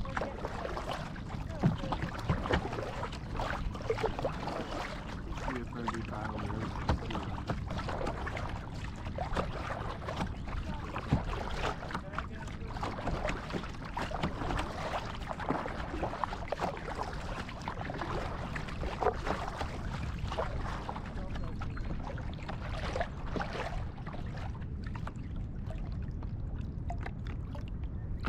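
Kayak paddling: the paddle blades dip and splash in the water at an irregular pace, with water dripping and lapping against the hull.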